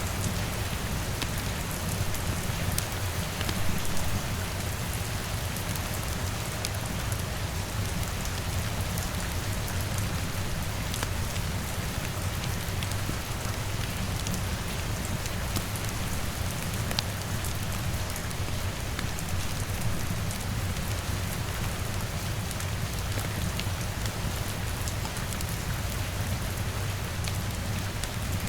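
Steady rain pattering on a window over a steady low rumble, with scattered sharp crackles and ticks throughout, as of a log fire crackling alongside.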